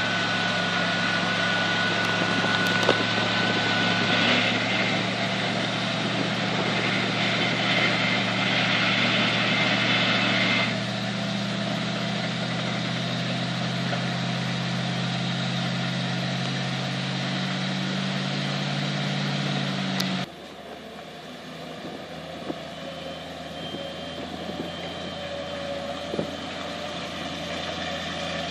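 1995 Ford F700 dump truck engine running at a steady idle; its sound cuts off abruptly about twenty seconds in, leaving a fainter steady hum.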